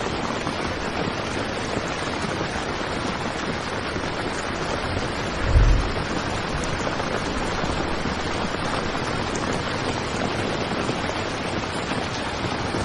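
Heavy rain falling on a tent, a steady, even hiss of water, with a brief low thump about halfway through.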